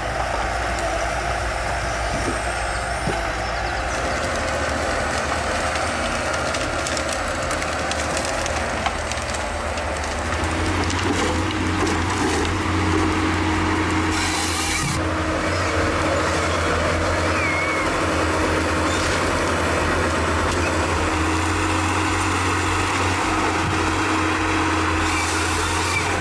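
Heavy diesel machinery running steadily under load, a continuous low engine drone that grows louder and deeper about ten seconds in, with a steady whine laid over it.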